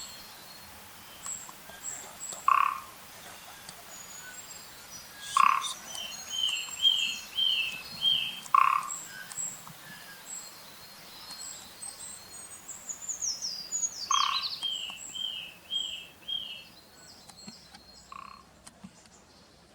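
Calls of long-tailed tits and a Japanese pygmy woodpecker: high thin notes, quick series of repeated chirps and a falling run of notes, with a short harsh call repeated five times.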